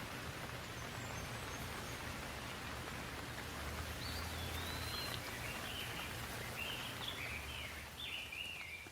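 Steady rain falling, with a songbird singing a run of short warbled phrases from about halfway through until near the end.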